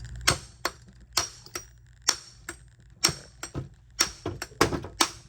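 Hammer blows on a nut threaded flush on the end of a golf cart starter-generator's armature shaft, driving the shaft out through a seized pulley. About one sharp, ringing metal-on-metal strike a second, with a few lighter taps between.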